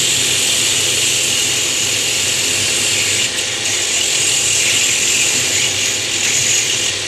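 A router running steadily while its bit cuts a recess into a natural stone tile blank, giving a steady motor hum under a loud, high grinding hiss. The sound dips briefly about three seconds in.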